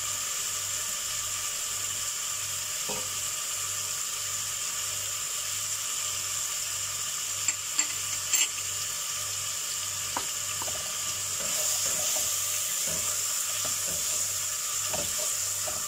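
Onion, tomato and ginger-garlic masala frying in oil in a pot: a steady sizzle, with a few sharp clicks a little past halfway. Near the end a wooden spoon stirs, knocking and scraping the pot, and the sizzle gets louder.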